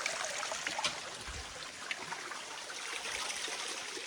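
Stream water running and trickling in a steady, even rush, with small scattered splashes and ticks.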